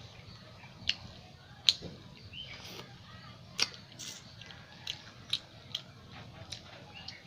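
Close-miked mouth sounds of eating chicken curry with paratha: chewing with a series of about seven sharp, wet smacks and clicks at irregular intervals, the loudest a little under two seconds in.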